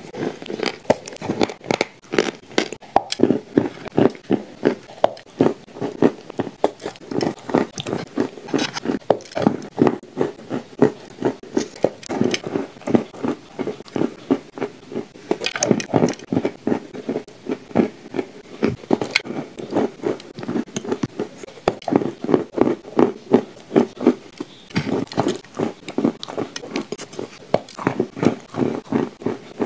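Close-up chewing and crunching of dry, crumbly shortbread with clay paste: a continuous run of sharp crunches, several a second.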